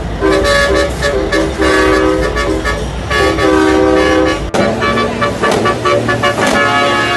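Truck horns blowing long, chord-like blasts, several tones sounding together and shifting pitch every second or so. About four and a half seconds in, the sound changes abruptly to a lower held tone with quick rhythmic beats.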